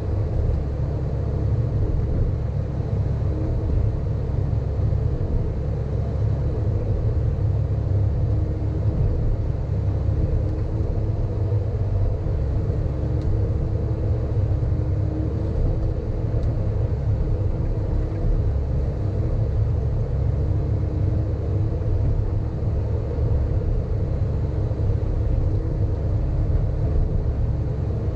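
Sany hydraulic excavator's diesel engine running steadily under working load, a constant low rumble with a faint steady hum above it.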